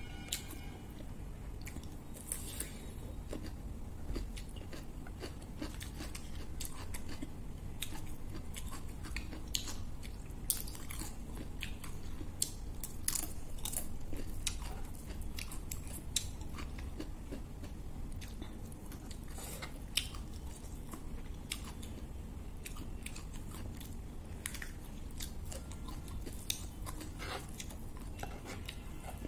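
A person chewing a mouthful of pork curry and rice, with many small sharp crunches and mouth clicks scattered throughout.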